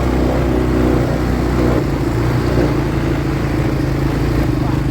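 ATV engine running at a steady pitch while riding.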